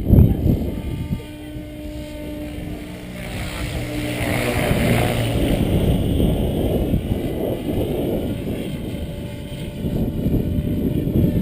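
Gusty wind buffeting the microphone. Through it, an electric radio-controlled model aircraft's motor whine swells up and fades away over the middle of the stretch as the model passes by.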